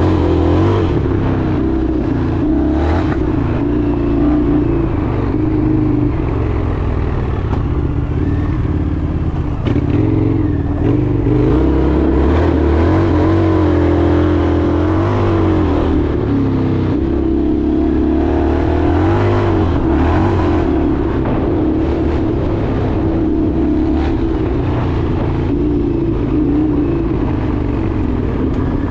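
Indian FTR 1200's V-twin engine running under way, its pitch rising and falling as the throttle is opened and eased off.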